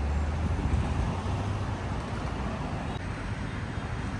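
City street traffic noise: a steady hum of passing cars, with a low engine rumble from a nearby vehicle in the first second or so.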